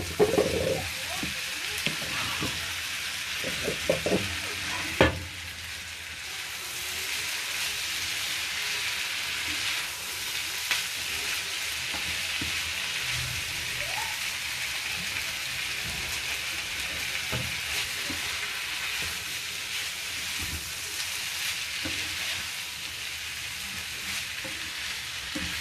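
Egg noodles, chicken and vegetables stir-frying in a hot pan with soy sauce just added, sizzling steadily. A few sharp knocks of the stirring utensil against the pan come in the first five seconds.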